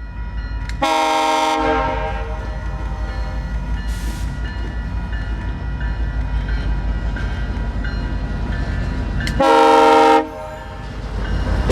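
Diesel-electric commuter locomotive, most likely a GO Transit F59PH, rumbling steadily with its train. Its horn sounds two short chord blasts, one about a second in and another near the end.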